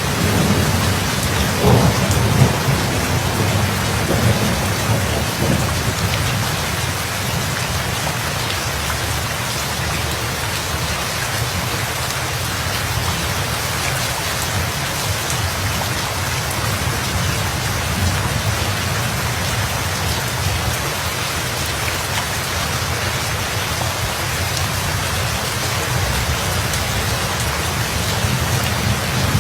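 Steady heavy rain with thunder rumbling low in the first few seconds, then fading back under the rain.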